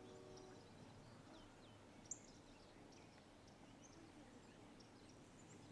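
Quiet outdoor background with faint, scattered small bird chirps and tweets, one sharper chirp about two seconds in.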